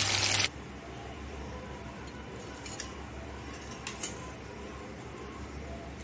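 Fish frying in hot oil, a dense sizzle that cuts off abruptly about half a second in. After it, a low steady hum with two faint clinks.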